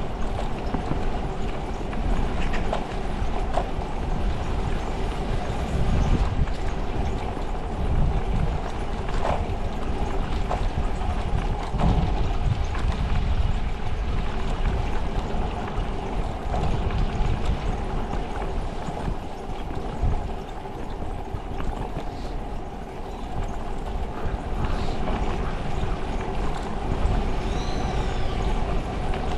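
Wind buffeting the microphone while riding a bicycle, a steady low rumble with a constant hum running under it. There are a few light ticks, and a short high chirp near the end.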